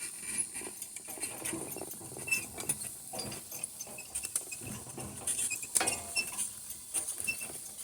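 Donkey-drawn cart moving over rough ground: irregular rattling and clicking of the cart and harness, with rustling and the patter of steps.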